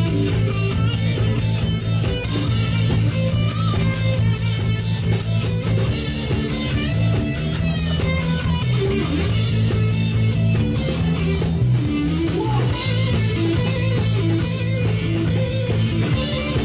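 Live rock band playing an instrumental break: electric guitar over bass and drum kit, with a steady driving beat.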